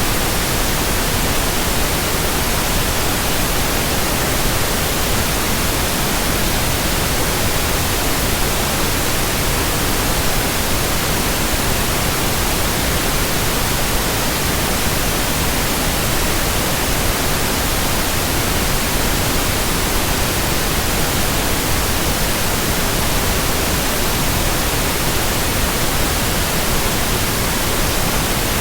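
Steady white-noise hiss, even from low to high with no rhythm, swoosh or change, played as a 'windmill' sleep and relaxation sound.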